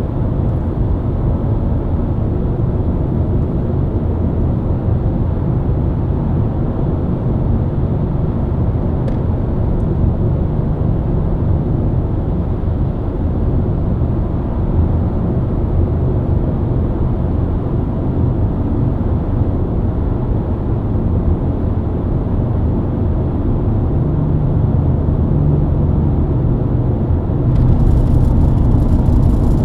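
BMW E90 323i's 2.5-litre inline-six engine and tyre noise at a steady expressway cruise, a low continuous drone that grows louder in the last few seconds, with a brief rush of hiss near the end.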